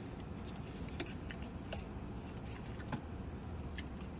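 A person chewing a mouthful of food, with short wet mouth clicks scattered through, the sharpest about three seconds in, over a steady low hum inside a vehicle cab.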